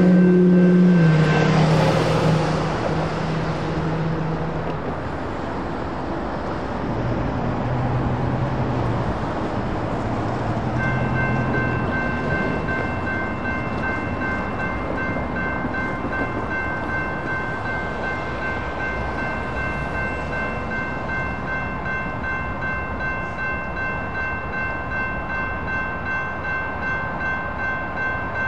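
A train horn sounding loudly at first, its pitch dropping about a second in and fading out over the next few seconds, over the rumble of a passing train. The crossing's warning bell rings with a steady, regular pulse, clearest from about eleven seconds in.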